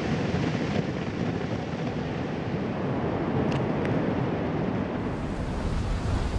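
Steady rumbling, rushing roar of Piton de la Fournaise erupting, with lava fountaining.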